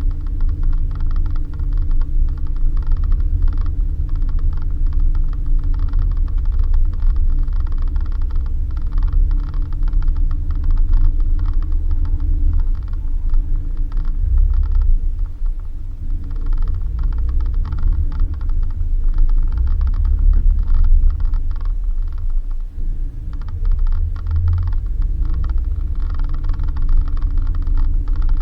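Suzuki Jimny driving on a rough dirt road: a steady low engine and road drone, with constant creaking and rattling from the vehicle over the bumps.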